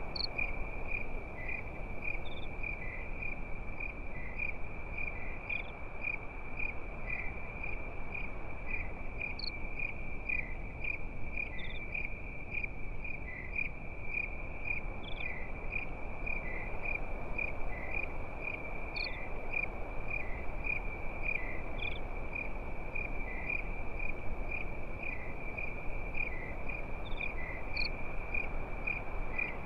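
Crickets chirping at night: a steady high trill pulsing about three times a second, with a higher, sparser chirp every two to three seconds, over a steady low hiss.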